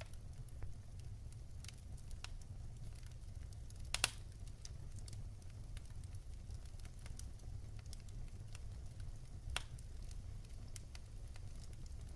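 Firewood burning in a fireplace: a steady low rumble of the flames under scattered crackles, with two louder pops, one about four seconds in and another near the end.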